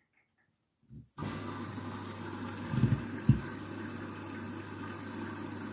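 Candy washing machine filling with water at the start of a cycle: water starts rushing in about a second in and carries on steadily over a low hum, with two short knocks near the middle.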